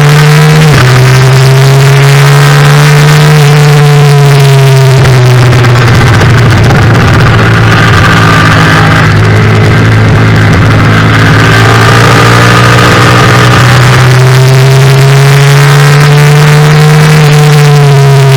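Yamaha FZ-07's 689 cc parallel-twin engine under racing load, very loud. The revs climb through the gears with a sharp drop at a shift about a second in, fall away around five seconds in, sit lower through the middle, then climb again and fall off near the end.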